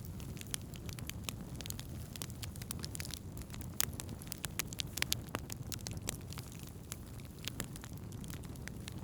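Wood campfire burning, with irregular crackles and pops over a steady low rumble of the flames; a few sharper pops stand out near the middle.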